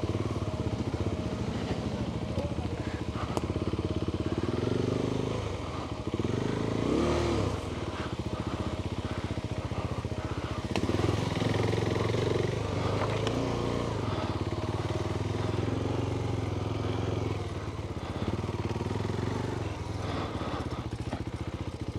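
Adventure motorcycle engine running at low revs on a rough trail, the revs rising and falling with the throttle. The sharpest rise and fall comes about seven seconds in.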